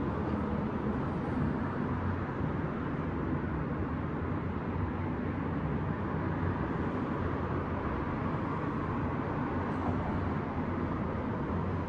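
Steady city traffic hum at night: a continuous low rumble of distant vehicles with no single event standing out.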